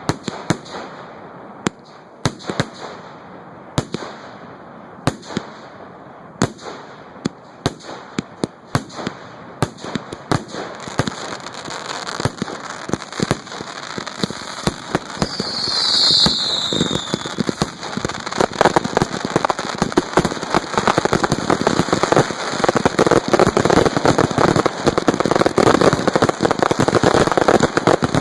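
Fireworks going off: scattered sharp bangs about once a second, growing denser from about ten seconds in into a continuous rapid crackling barrage. A falling whistle sounds about halfway through.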